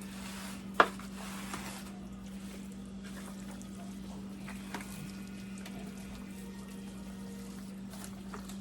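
Hands squishing raw chicken pieces around in a wet jerk marinade with browning sauce, faint liquid squelching. A steady low electrical hum runs underneath, and a sharp click comes about a second in.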